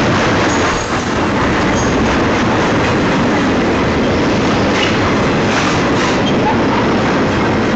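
Union Pacific double-stack container train's cars rolling past close by: steady, loud wheel-on-rail noise with a few faint, short wheel squeals.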